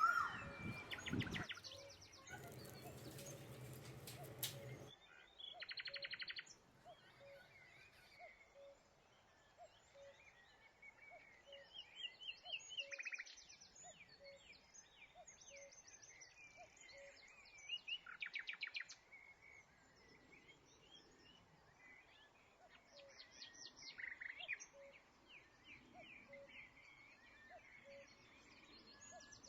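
Small birds chirping and calling over and over, with fast trills, the loudest about 18 seconds in. A faint, evenly spaced ticking runs underneath, and the first five seconds hold a noisy patch with a low hum.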